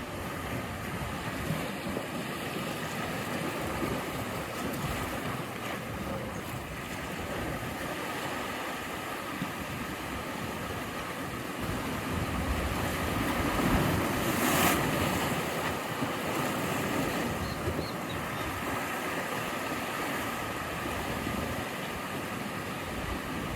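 Ocean surf: a steady rush of waves breaking and washing ashore, with one bigger wave swelling louder a little past halfway.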